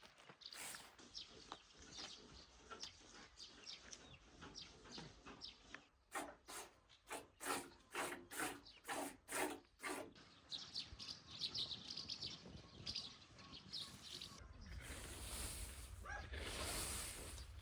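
Small birds chirping. In the middle comes a run of about eight regular strokes, roughly two a second, and near the end a spell of rustling noise.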